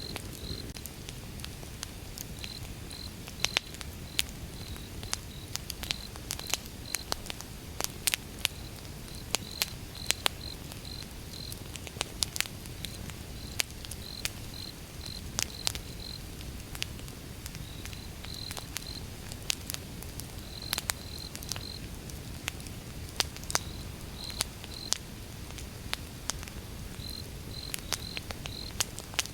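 Wood fire burning with irregular sharp crackles and pops over a low steady rumble of flame. Crickets chirp in short repeated bursts throughout.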